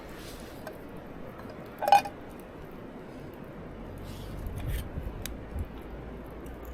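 Camp gear being handled: one sharp, ringing clink about two seconds in, like a metal cup or pot knocked, followed later by a few small clicks and handling sounds.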